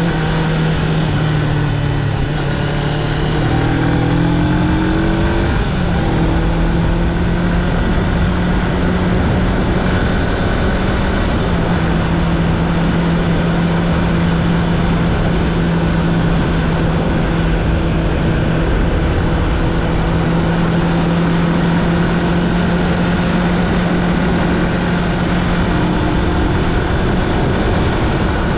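Honda CB500X's parallel-twin engine running under way, its revs rising and stepping through gear changes in the first six seconds or so, then holding steady at cruise. A steady rush of wind and road noise runs under it.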